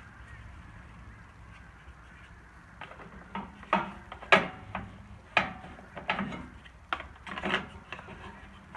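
Geese honking: a string of short, irregular honks starting about three seconds in.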